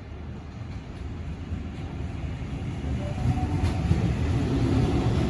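Sydney Trains Waratah A set electric train getting under way, its running noise building steadily louder. About three seconds in, a low rumble and the faint tone of the IGBT-VVVF traction inverter and motors come up as it accelerates.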